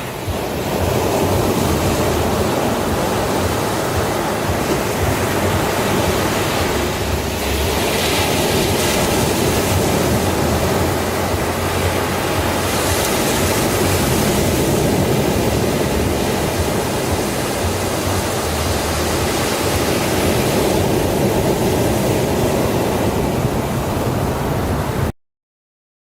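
Sea waves washing onto a beach: a steady rush of surf that swells now and then as larger waves break, then cuts off suddenly near the end.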